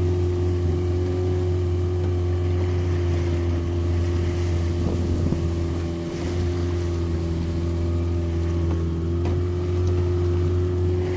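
Boat engine running steadily: a constant low drone with a steady higher tone over it, holding at one pitch.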